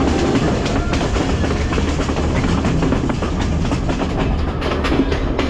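Passenger train rolling past, its wheels clattering irregularly over rail joints above a steady low hum.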